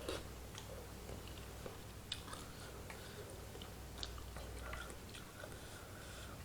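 Close-miked sounds of a person eating soupy curry instant noodles: chewing, with a few sharp clicks about at the start, two seconds in and four seconds in.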